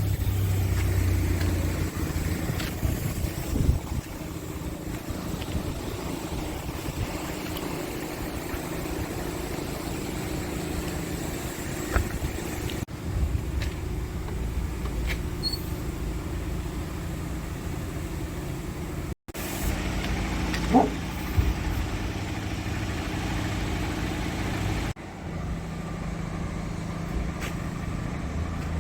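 Scania R580's V8 diesel engine idling steadily, broken by a few abrupt cuts between takes.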